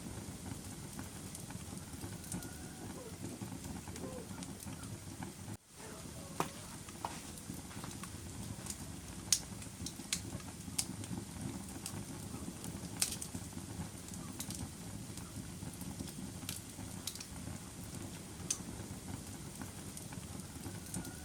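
Fire burning in a fireplace: a steady low rumble with irregular sharp crackles and pops. The sound drops out for an instant about five and a half seconds in.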